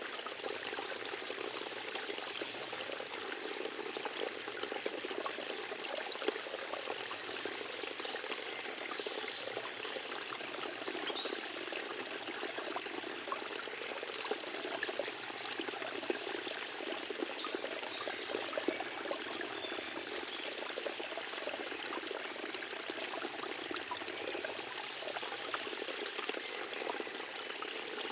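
Forest stream trickling and babbling over stones, a steady wash of running water with small splashes.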